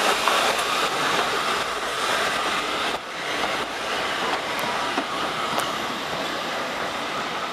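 Railway carriages of a steam-hauled train rolling past at low speed: a steady rumble and rush from the wheels, with scattered clicks as the wheels pass over the rail joints.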